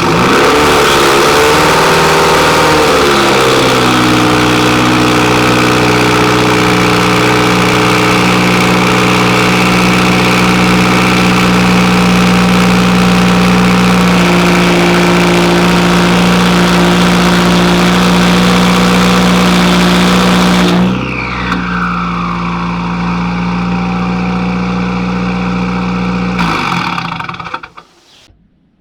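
Turbocharged SR20DET engine in a Nissan 240SX cold-started through a straight-piped turbo-back exhaust (high-flow cat J-pipe and ETS Extreme catback): it catches at a high fast idle that drops over the first few seconds, then idles steadily. About 21 seconds in the sound turns muffled with a falling whine, and near the end the engine shuts off.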